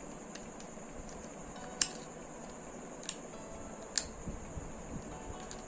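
Scalpel cutting and prying at the plastic housing of a DC power plug: faint scraping with three sharp clicks of the blade through the plastic, about two, three and four seconds in.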